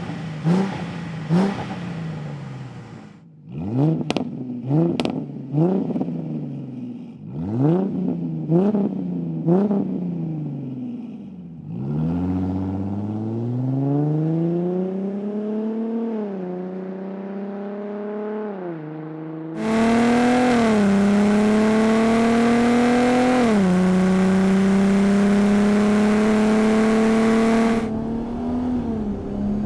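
2005-2010 Mustang's 4.0-litre V6 through a MAC Boom Tube axle-back exhaust with straight-through mufflers. It first gives about a dozen quick, sharp throttle blips. Then it accelerates through the gears, its pitch climbing and dropping back at each shift, and is loudest during a long pull about two-thirds of the way in.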